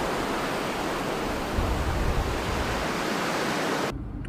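Blizzard wind blowing hard as a steady rushing hiss, with a low rumble of a gust about halfway. It cuts off suddenly near the end, leaving a much quieter background.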